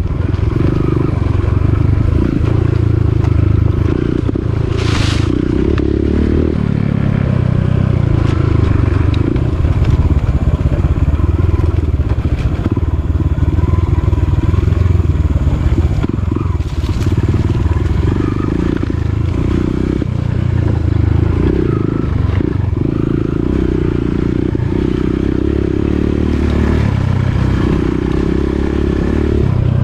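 Dirt bike engine running while riding a rough trail, its note rising and falling every second or two with the throttle. A short hiss about five seconds in.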